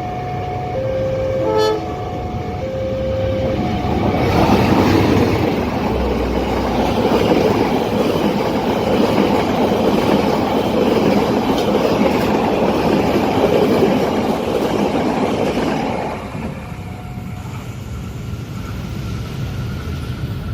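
A level-crossing warning alternates between two tones. At about four seconds a train passes close by, and its loud, steady rush of wheel and rail noise lasts about twelve seconds before dropping away suddenly.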